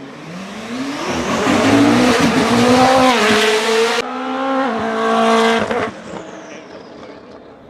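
Koenigsegg Jesko's twin-turbocharged V8 accelerating hard, its note rising for about three seconds. The sound breaks off abruptly about four seconds in, comes back held high, then drops away and fades near the end.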